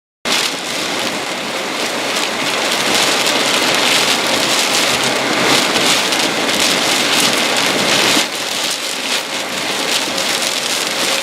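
Heavy rain pelting down in a severe thunderstorm: a loud, dense, steady hiss that eases slightly about eight seconds in.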